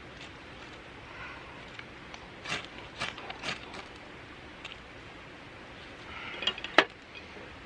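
A few sharp clicks and knocks over a quiet background, three about a second and a half apart, then a louder single knock near the end.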